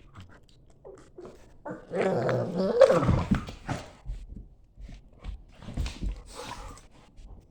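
A German Shepherd and a Staffordshire bull terrier play-fighting, growling and making rough, odd vocal noises in irregular bursts. The loudest run of growls lasts about a second and a half, starting about two seconds in, with shorter growls near the end.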